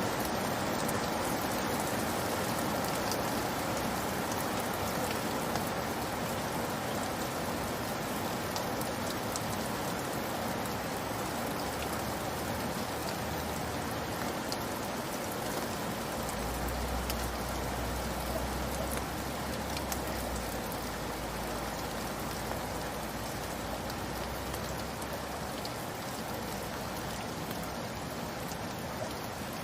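Steady rainfall, an even hiss of rain with individual drops pattering on a surface. A low rumble sits underneath for several seconds from about midway.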